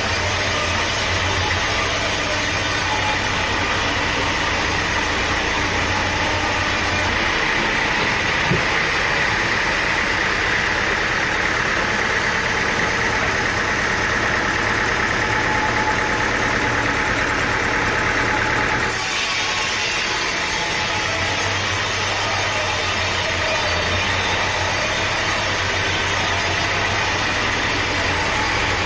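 An engine running steadily under a continuous loud machine noise. Its sound changes abruptly about 7 seconds in and again about 19 seconds in.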